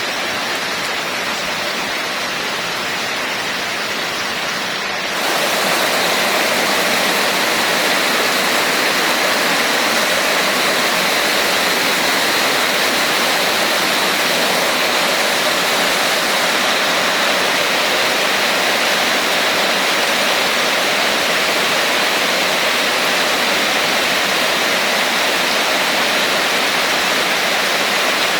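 Heavy rain falling steadily, a dense even hiss that jumps louder and brighter about five seconds in.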